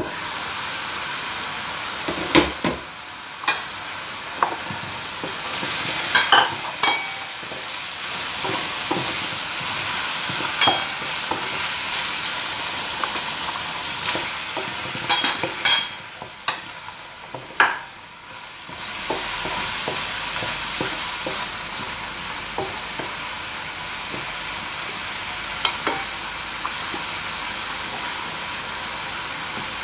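Chicken, carrots and green peas sizzling in a frying pan, with a utensil knocking and scraping against the pan as the food is stirred for the first half. After a short lull the stirring stops and only the steady sizzle is left.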